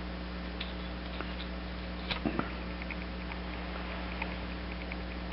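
Steady low hum with a few faint, sharp clicks and scratches about two seconds in, from a torch tip cleaner wire being worked through a carburetor's plugged main jet orifice.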